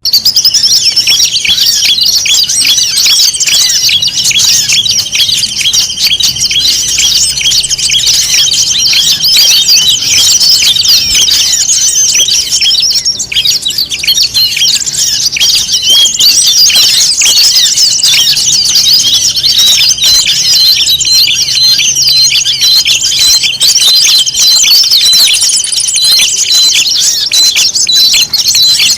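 A dense chorus of many small songbirds chirping and twittering at once, with no pauses: a mixed-species 'noisy birds' lure recording used to draw wild birds in. A steady high-pitched tone runs underneath for long stretches, dropping out for a few seconds about halfway.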